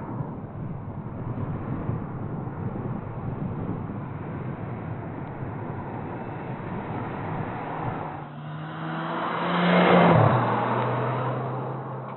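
Renault Clio R.S.'s 1.6-litre turbocharged four-cylinder engine as the car drives past. A rough rumble gives way about eight seconds in to a clear engine note that grows louder. It is loudest as the car passes, about ten seconds in, then its pitch drops and the sound fades away.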